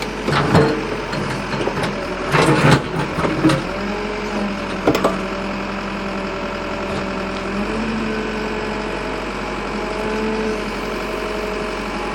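Excavator's diesel engine running steadily as it strains to lift a very heavy boulder, with several knocks and clanks in the first five seconds. The engine note shifts slightly about eight seconds in.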